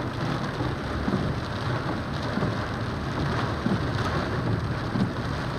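Rain falling steadily, with a constant low rumble underneath.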